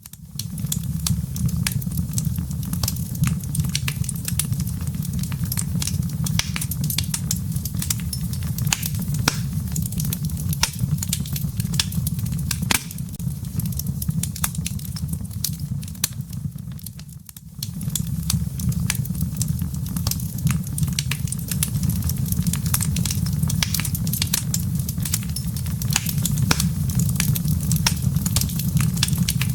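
Wood fire burning in a fireplace: a steady low rumble of flame under many sharp crackles and pops from the embers. The sound drops away briefly about 17 seconds in, then carries on.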